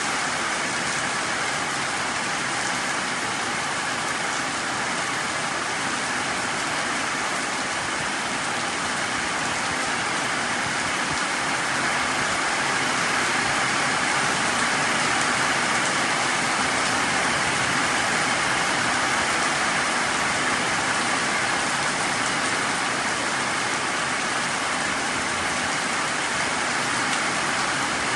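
Heavy tropical downpour falling steadily on a muddy dirt yard, puddles and tree leaves: an even, unbroken hiss of rain that grows a little louder about ten seconds in.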